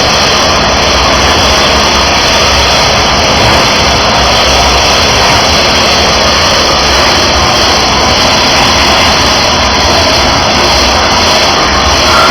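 Engine-driven high-pressure washer running steadily at full level, a constant loud engine and pump noise mixed with the hiss of the spray.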